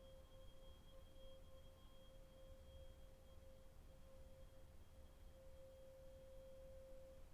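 A tuning fork struck just before, ringing on at one steady pitch and slowly fading as Biofield Tuning closes the session by wrapping the field in a cocoon. Its thin high overtone dies away about halfway through, and the faint main tone rings on to the end.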